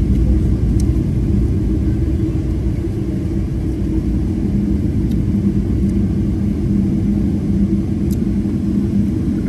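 Steady low rumble of a Boeing 777 airliner cabin on the ground, with a steady low hum running through it.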